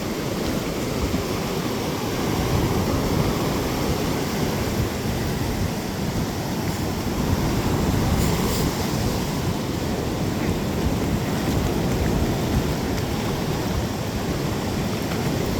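Ocean surf washing steadily on the beach, mixed with wind rumbling on the microphone.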